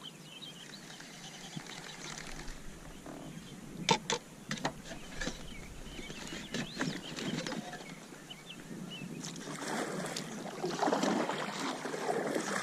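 Handling noises aboard a fishing kayak: a few sharp knocks about four seconds in, then a louder, rougher stretch of noise near the end.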